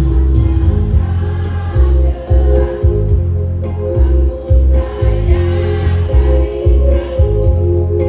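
Choir of elderly singers singing in unison with long held notes over an instrumental accompaniment that has a heavy, pulsing bass.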